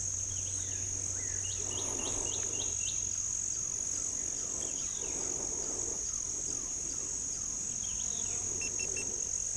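Steady high-pitched chorus of insects droning without a break. About two seconds in comes a quick run of about six short chirps, and a few fainter chirps follow near the end.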